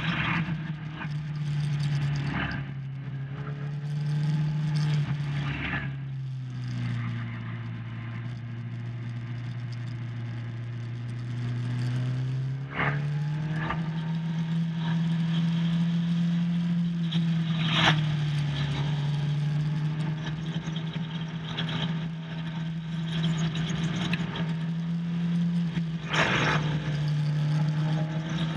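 Motorcycle engine running hard on a race track, its note mostly steady at high revs. The pitch drops for several seconds about a quarter of the way through, then climbs back. Rushes of wind noise come and go several times.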